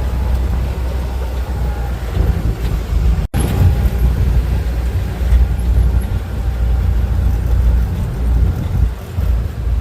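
Steady low rumble of a moving vehicle, with a brief dropout about a third of the way in.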